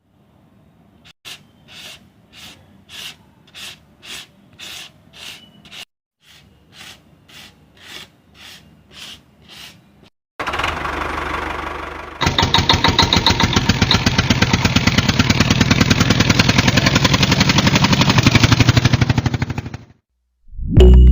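Soft rhythmic scraping, about two strokes a second, then a small electric motor driving a homemade model machine starts up and runs with a loud, fast rattle for about ten seconds before stopping abruptly.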